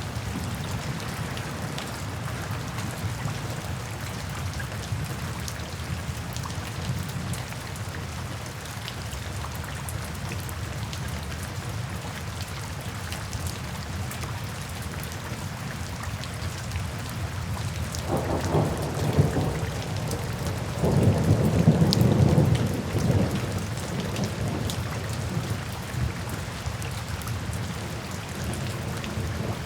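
Steady rain falling into puddles and standing water, with a roll of thunder rumbling in about two-thirds of the way through and fading away a few seconds later.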